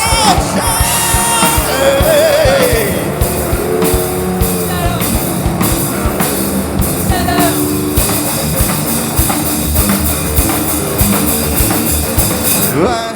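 Live hard rock band playing: a pounding drum kit and distorted electric guitars, with a wavering sung vocal line in the first couple of seconds. This is the band's own mix, taken straight from the mixing desk.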